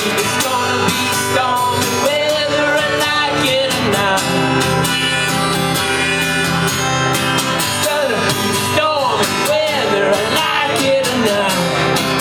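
Acoustic guitar strummed in a steady rhythm, with a voice singing over it at times: a live acoustic song.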